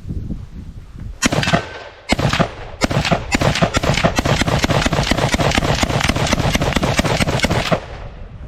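Semi-automatic rifle fire: two single shots about a second apart, then a rapid string of shots at about four a second for some five seconds, stopping shortly before the end.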